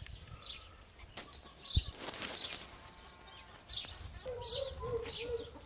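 Small birds chirping: short, falling high notes that repeat every second or so. There is a single knock about two seconds in, and a distant wavering call starts near the end.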